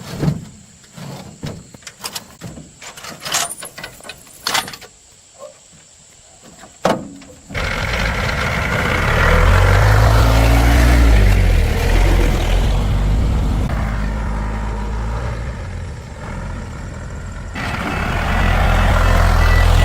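Scattered clicks and knocks of hand-tool work, then a large engine starts running loud about seven and a half seconds in. It runs with a deep, shifting pitch, eases off in the middle and swells again near the end.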